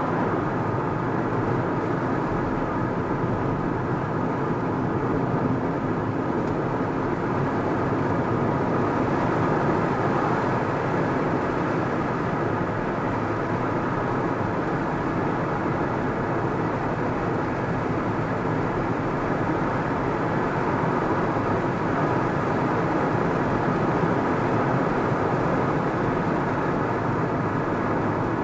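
A car driving steadily along a road: an even, unbroken drone of tyre and engine noise.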